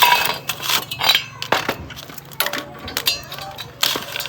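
Metal tools and engine parts clinking and knocking against each other in quick, irregular clinks and scrapes, with a faint steady hum underneath.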